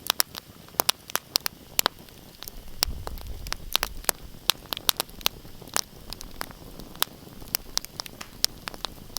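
Wood fire in a fireplace crackling: many sharp, irregular pops and snaps over a soft hiss, with a low rumble of the flames swelling about three seconds in.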